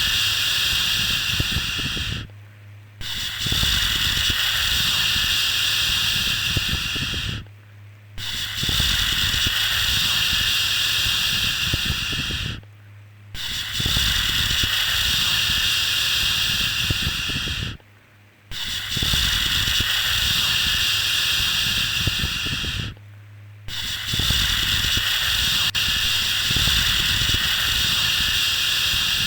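Long shushing 'shhh' sounds for soothing a baby, each lasting about four and a half seconds, with a brief pause between them, about six times over. A faint low hum runs underneath, through the pauses.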